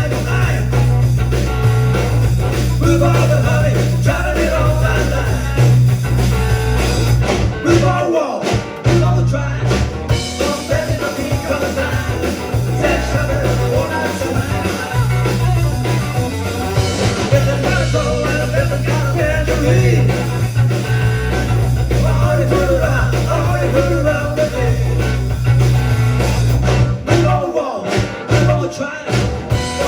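Live rock band playing a rock-and-roll song with singing, electric guitar and heavy bass. The band drops out in short breaks about eight seconds in and again near the end.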